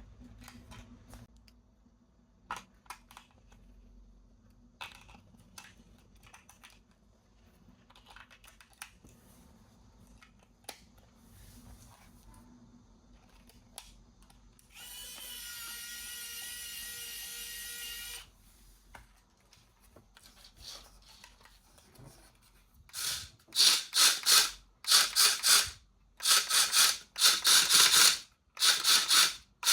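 Faint clicks and rustles of handling, then a steady whirr for about three seconds in the middle. Over the last seven seconds, a remote-control toy's small electric motor and gearbox run in repeated loud bursts of about a second each, starting and stopping.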